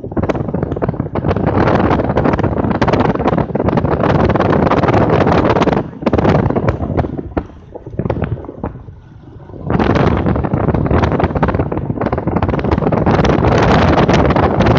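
Wind buffeting the microphone in strong gusts, a loud crackling rush that dies down briefly just past the middle and then surges back.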